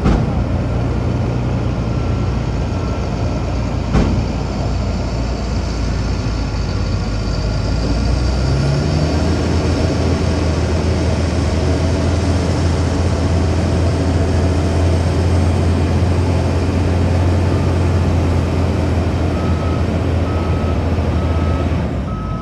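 Heavy diesel construction machinery running steadily, its engine note rising and strengthening about a third of the way through and then holding. There is a single sharp knock about four seconds in, and near the end a reversing alarm starts beeping at an even pace.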